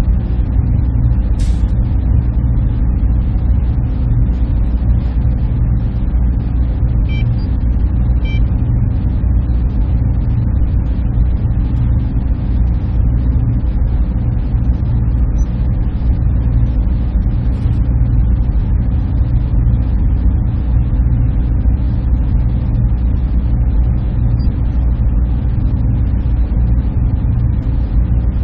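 Steady hum of server-room machinery running: an unchanging low drone with a fainter hiss above it, and a brief click about a second and a half in.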